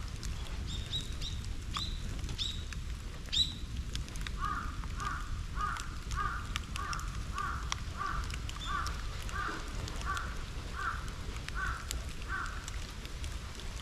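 A crow cawing about a dozen times in an even run, roughly one and a half caws a second. A few short, higher bird calls come before it in the first few seconds. Scattered clicks and pops run under it, fitting the crackle of a wood and bamboo bonfire.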